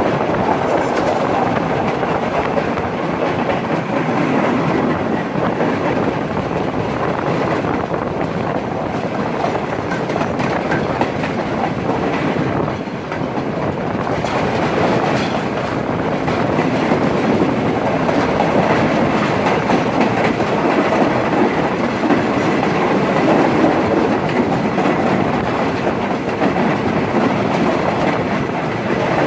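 Udaya Devi express passenger train under way, a steady, continuous running noise of the carriages and wheels on the rails.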